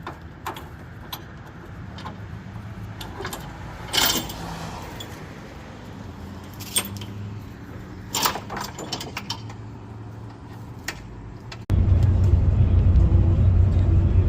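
Scattered metallic clicks and clanks, like keys or tools being handled, over a low steady vehicle hum. Near the end the sound switches abruptly to a much louder, steady low rumble of a running vehicle.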